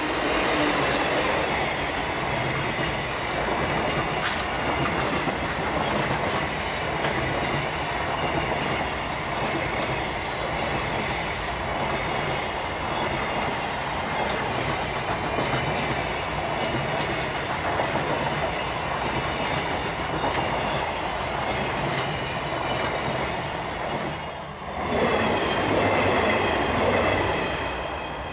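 A DD51 diesel locomotive runs past, then a long train of container wagons goes by with wheels clattering over the rail joints and a steady squeal. About 25 s in, the sound briefly dips and comes back louder as a KiHa 150 diesel railcar runs close by.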